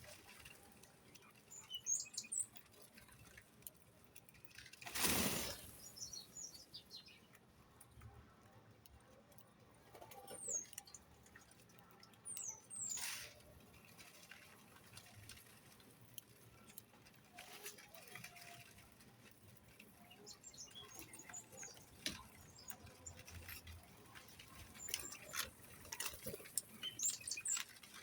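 Small birds chirping now and then, with light pattering and clicks. Two louder brief whooshes come about five and thirteen seconds in.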